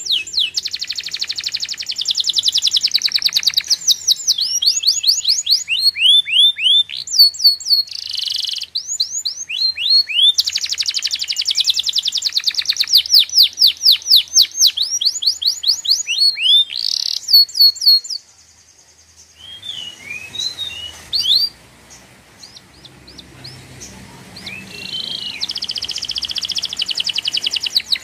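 Songbird singing in long, fast trills of rapid repeated chirps, with a lull about two-thirds of the way through before the trilling picks up again near the end.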